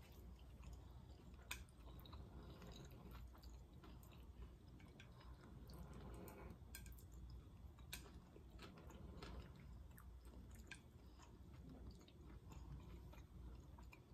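Faint close-up chewing of a mouthful of soft stewed beef and potato, with scattered small clicks.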